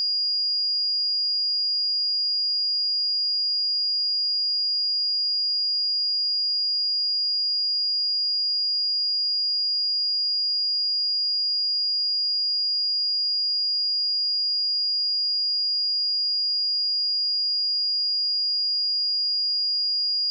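A pure 4848 Hz sine-wave test tone, a steady high-pitched whistle-like tone held at one pitch and level throughout.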